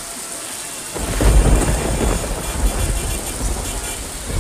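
Heavy rain hissing steadily, joined about a second in by a deep, uneven rumble of the storm that runs on.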